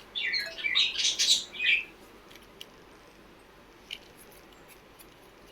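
A small bird chirping several times in quick succession, then stopping about two seconds in; a couple of faint clicks follow.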